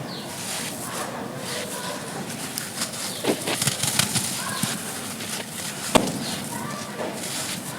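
Dry, grainy charcoal shapes crumbling and crunching, with a gritty rustle and scattered crackles. A sharp crack comes about six seconds in.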